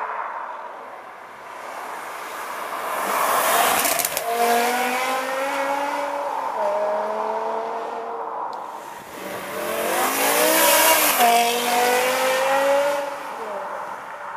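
BMW M6 E63's V10 engine through a custom stainless-steel exhaust, accelerating hard twice. Its pitch climbs and steps down at the gear changes, loudest about four seconds in and again around eleven seconds.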